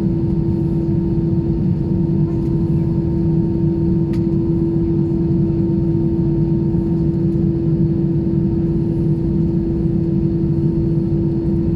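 Steady cabin drone inside an Airbus A320-200: one constant low hum over an even rumble from the running engines and cabin systems, with no rise or fall.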